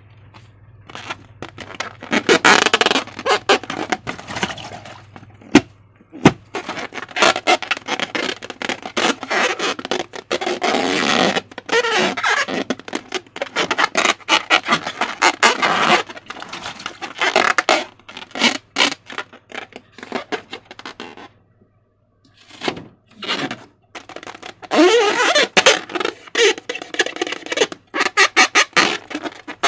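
Slime being squished and worked by hand, a run of rapid wet crackles and squelches that breaks off twice near the end, with a few stretchy squeaks late on.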